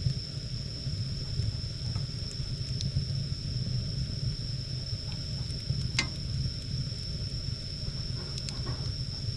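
Wood fire burning with a steady low rumble and scattered crackles, one sharp pop about six seconds in.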